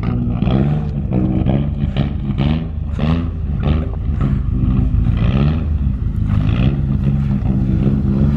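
Turbocharged car engine driving on snow, its pitch rising and falling repeatedly as it is revved and shifted.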